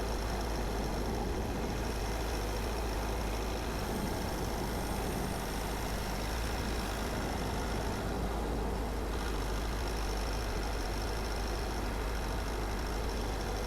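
A car driving at a steady pace: a continuous low engine and road rumble with tyre noise, unchanging throughout.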